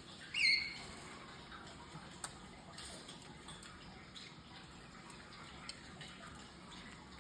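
A pet conure gives one short chirp about half a second in, followed by scattered light clicks and ticks.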